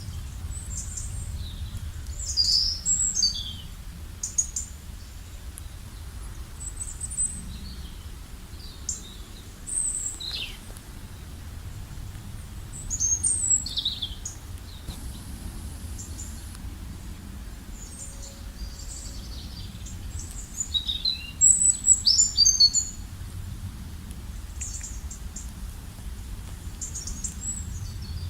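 Several wild birds calling and singing in scattered bursts of high chirps and short falling whistles, busiest about 3, 13 and 22 seconds in, over a steady low rumble.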